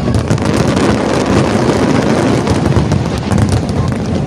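Fireworks going off in rapid succession: a dense, continuous mass of bangs and crackles over a low rumble, like a finale barrage.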